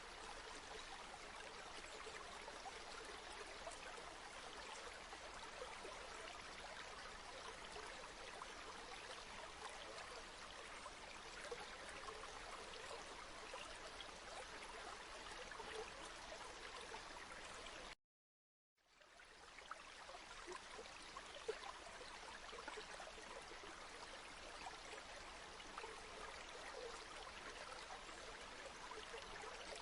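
Flowing river water, a steady rushing babble. It cuts out to silence for under a second about 18 seconds in and fades back in.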